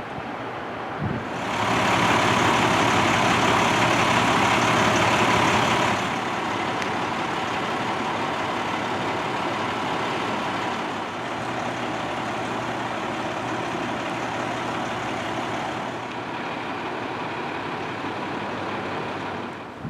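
Diesel engine of a heavy fire truck running steadily with a low hum, louder and harsher for the first few seconds, then settling to a steady lower level. No siren is heard.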